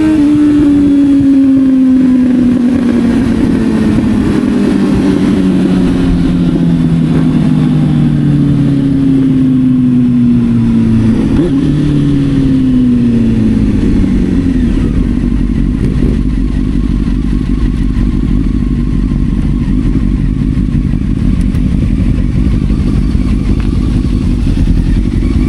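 Motorcycle engine slowing down, its pitch falling steadily for about eleven seconds. It rises briefly in a short blip, then falls again. From about halfway on the engine note fades under a steady low rumble.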